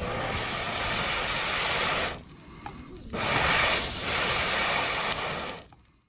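Steady hissing noise that cuts down suddenly for about a second, returns, then fades away near the end.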